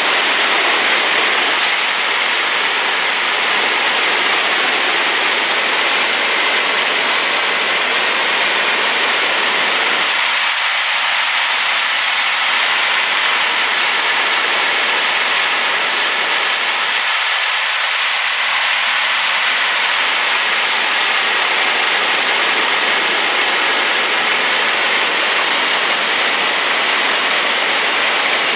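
A waterfall swollen by rain, a loud, steady rushing of falling water.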